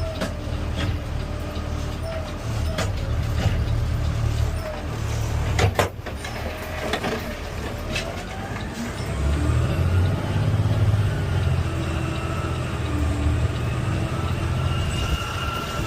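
CNG-powered Peterbilt 520 garbage truck running, heard from the driver's seat as a steady low rumble. A few sharp knocks come about a third and halfway through, and a whine rises and then holds steady in the second half.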